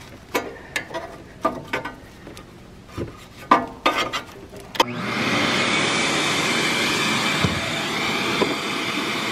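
Scattered light clicks and knocks of parts being handled on the engine. About five seconds in, a steady rush of air starts suddenly and carries on, much louder than the handling.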